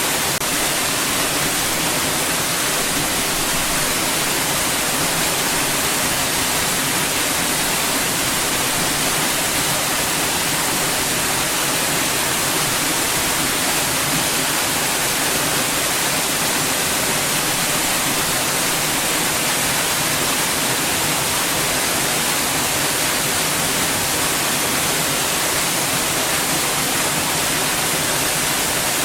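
Steady white noise: an even hiss that does not change in level or character.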